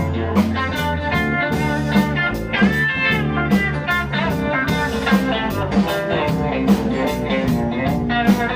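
Blues-rock band playing an instrumental passage: guitar to the fore over bass and a steady drum beat.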